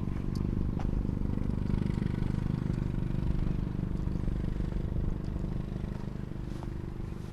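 Steady low hum of a car running, with a couple of light clicks in the first second. The hum eases off slightly near the end.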